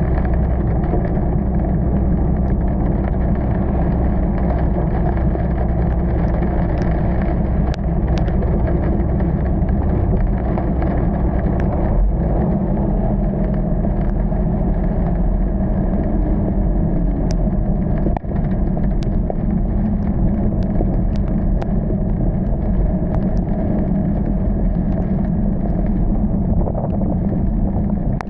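Car driving, its engine and road noise a steady low rumble, with scattered light ticks over it.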